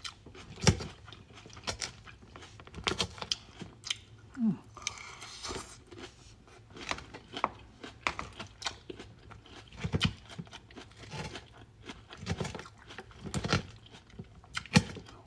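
Close-up chewing and crunching of a raw vegetable salad, with irregular crisp bites and crunches. About five seconds in there is a short rustling noise.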